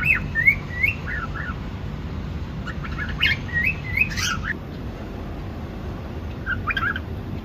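Cockatiel chirping in short runs of quick rising whistled notes, three bouts with pauses between them, over a steady low background hum.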